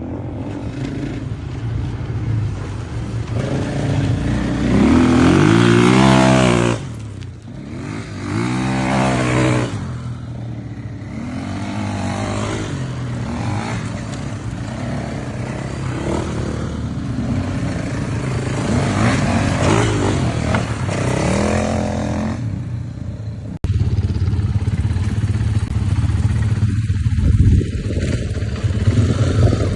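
Motocross bike engine running under load, revving up and down over and over as the rider works the throttle. About three-quarters of the way through the sound changes abruptly to a steadier engine note.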